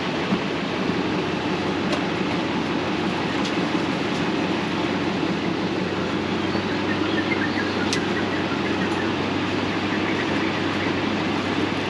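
Passenger van's engine running, heard from inside the cabin as a steady, even rumble, with a few faint ticks.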